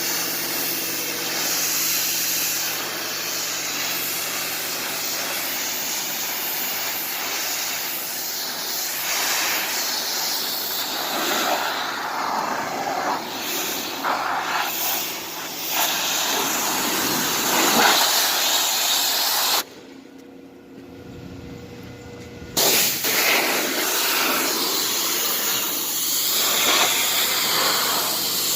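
Pressure washer jet spraying water onto a 1996 Oldsmobile Cutlass Ciera, a steady hiss. The spray cuts off for about three seconds roughly two-thirds through, then starts again.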